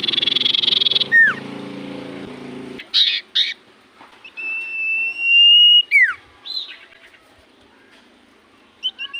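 Common iora (cipoh) singing: harsh chattering notes, then a long drawn-out whistle that rises slightly and ends in a quick falling note, about four seconds in, with a second whistle starting near the end.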